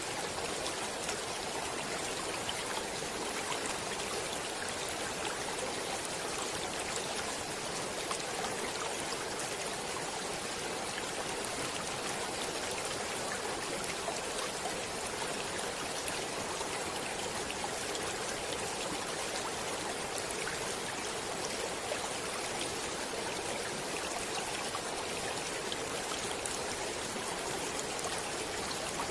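Stream water running and trickling, a steady rushing hiss with fine splashes throughout.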